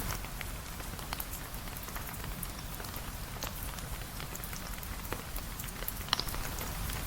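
Steady rain falling, with many small scattered drop ticks over a low rumble, and one sharper crack about six seconds in.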